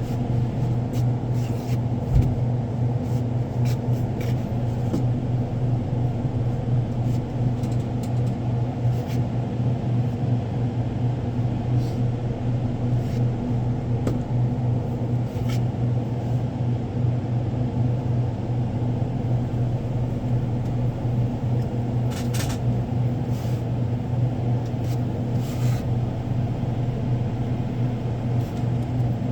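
Steady low mechanical hum with a strong deep tone, with a few faint clicks and knocks of stock being handled now and then.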